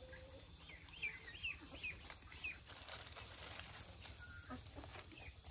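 A bird calling in a quick series of about six short, falling chirps, faint against a steady outdoor background.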